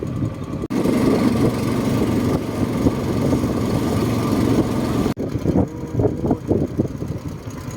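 Small tourist boat's engine running steadily under way, with two brief dropouts in the sound about a second in and about five seconds in.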